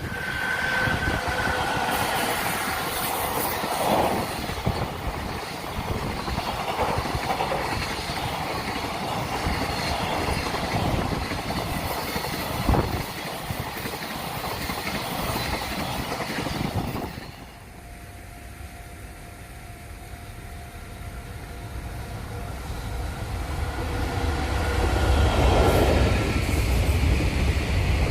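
Long freight train passing at speed, its wagons clattering over the rail joints with a rolling rumble. About two-thirds of the way through the sound cuts off suddenly, and another train's rumble then builds as it approaches.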